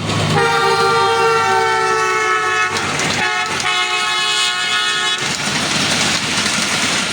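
Train horn sounding two long blasts with a short break between them, then the steady rumble of the running train.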